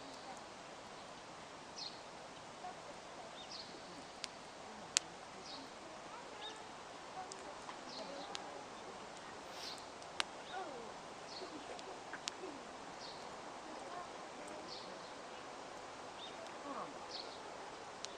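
Wood campfire crackling quietly, with a few sharp pops, over a bird repeating a short high chirp about once a second.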